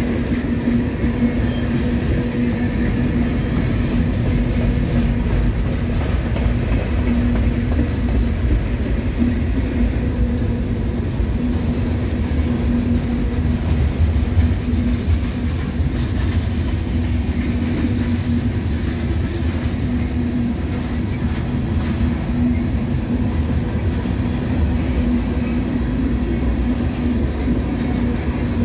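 Freight train tank cars rolling past on the rails: a steady rumble of steel wheels on track with a constant low tone running through it.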